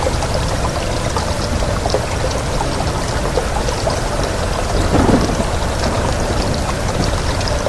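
Steady heavy rain, with many small drops pattering over a continuous low rumble of wind; the sound swells briefly about five seconds in.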